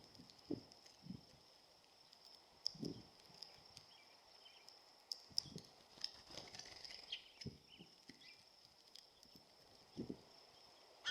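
Birds at a Bird Buddy smart feeder: scattered soft knocks and taps of birds landing and pecking on the feeder, with a few faint chirps around the middle, over a steady faint high-pitched whine.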